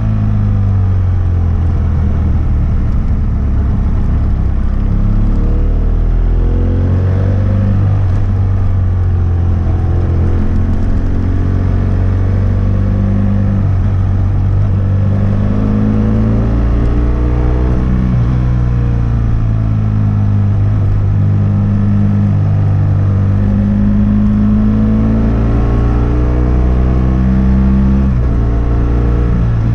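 2006 BMW F800S parallel-twin engine running through a GPR Furore aftermarket exhaust with its dB-killer fitted, with the bike under way. The exhaust note climbs and drops back again and again over a steady low drone.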